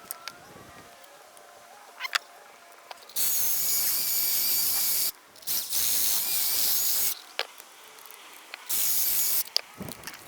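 Three bursts of hissing, as of spray or gas rushing from a nozzle, with a faint whistle in it. The first two last about two seconds each and the last under a second, with a few small clicks between them.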